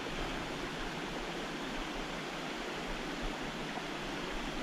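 Steady rush of water in a small rocky stream.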